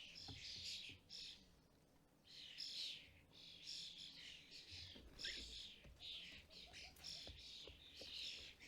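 Common starlings giving harsh, buzzy chirps in quick repetition, two to three a second, with a pause of about a second just after the start. The calls are faint.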